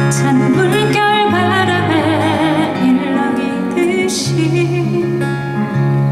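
A female vocalist sings a long, wavering note with vibrato over acoustic guitar and a steady bass accompaniment.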